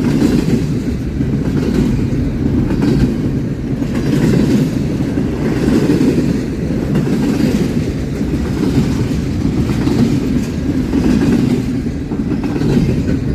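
A train rolling past close by: a steady, heavy rumble of wheels on rail, with faint repeated clacks.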